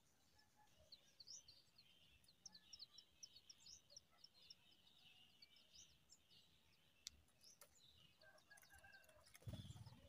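Faint, quick high-pitched bird chirps, many in a row, then a few lower chirps, with a short low thump about nine and a half seconds in.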